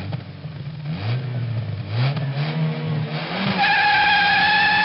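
An engine revving in repeated short rising blips. From about three and a half seconds in, it gives way to a loud, steady high-pitched whine.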